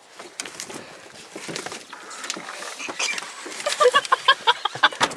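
Chickens clucking, a rapid run of short calls starting about halfway through, over scattered clicks and rustling.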